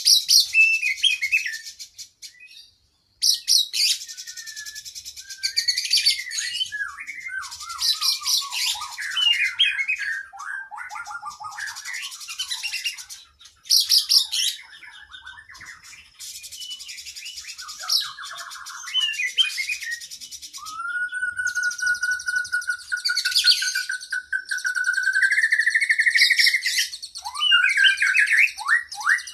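Oriental magpie-robin (kacer) singing a long, varied song. Fast high buzzy trills alternate with strings of quick down-slurred whistles, with brief pauses. Past the middle comes one long whistle that rises slowly in pitch.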